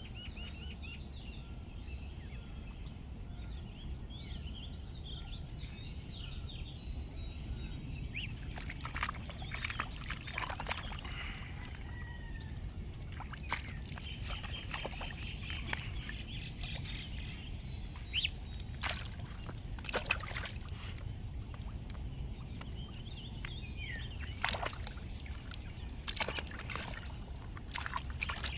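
Ducklings peeping in many short, high calls over a steady low rush of running water, with frequent splashing and sloshing from about eight seconds in.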